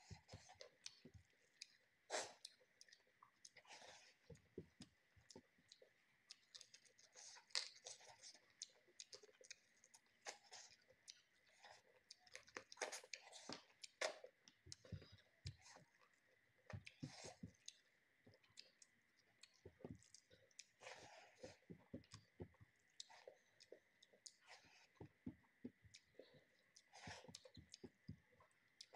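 Faint close-up chewing of a person eating rice and chicken by hand: many short, irregular wet mouth clicks, smacks and small crunches.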